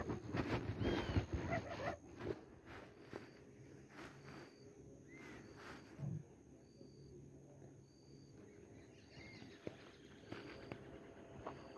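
Faint birdsong: a short, high note repeated about once a second, with a few brief chirps. Knocks and rustling from handling the phone and boat gear in the first two seconds.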